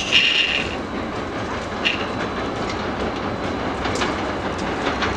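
CTA rapid-transit train running on the rails: a steady rumble with wheels clicking over the rail joints now and then, and a brief high wheel squeal right at the start.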